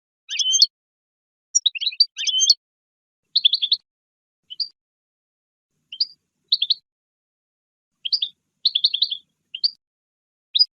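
Goldfinch singing: quick, high twittering phrases of a second or less, repeated about a dozen times with short pauses between them.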